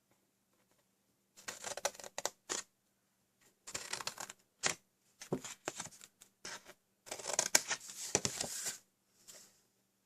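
Cardstock being handled and snipped with scissors: several short spells of rustling with sharp clicks.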